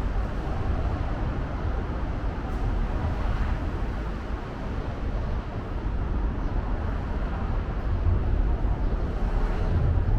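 Steady outdoor city ambience: a continuous low rumble under an even haze of noise, with no distinct events standing out.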